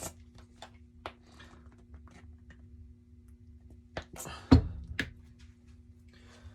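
Quiet handling and rubbing from wiping furniture oil onto a wooden shelf with a paper towel: faint rustles and scattered small clicks, with a single thump about four and a half seconds in, over a steady low hum.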